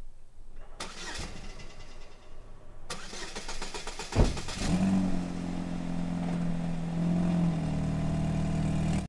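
A car engine being started: a few seconds of cranking, a sharp thump as it catches about four seconds in, then a steady idle.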